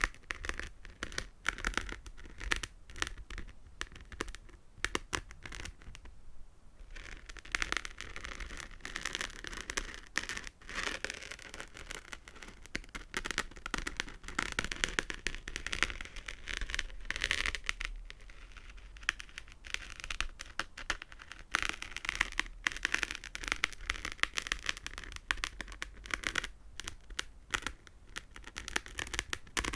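Fingernails tapping and scratching in quick succession, a dense patter of small clicks over a scratchy rustle.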